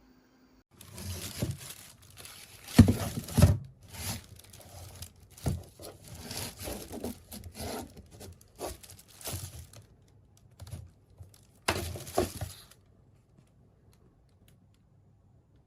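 Packaging being torn and crinkled by hand in irregular bursts, stopping about three quarters of the way through.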